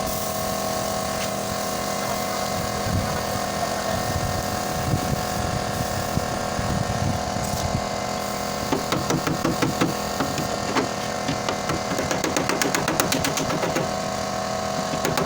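Steady machine hum in a car body workshop. About nine seconds in, a fast run of sharp knocking starts and continues to the end.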